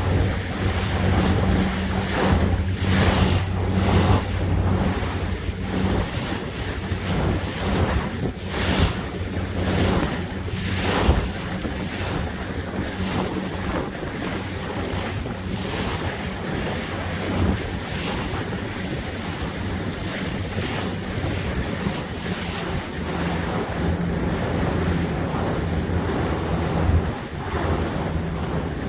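Motorboat under way: a low, steady engine hum beneath the rush of water along the hull, with wind buffeting the microphone in repeated gusts during the first half.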